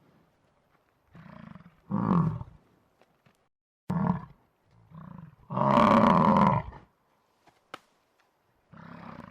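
A large animal calling: about five deep, drawn-out calls in a series, the longest and loudest a little past halfway.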